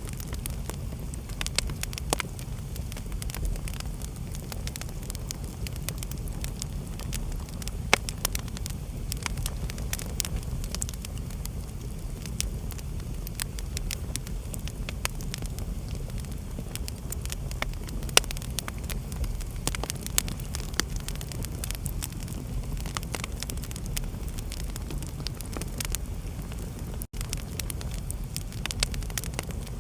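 Fireplace fire crackling: a steady low rumble of burning with frequent small snaps and a few louder pops. It cuts out for an instant a little before the end.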